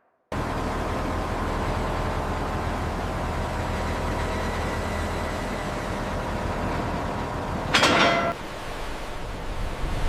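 Steady low rumble of heavy vehicle engines running, with a short louder burst near the end.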